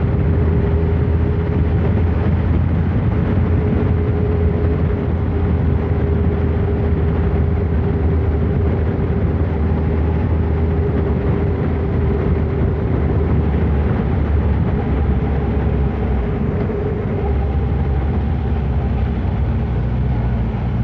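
Kawasaki ZR-7's air-cooled inline-four running steadily under way, with wind and road noise, its engine note shifting about three-quarters of the way through.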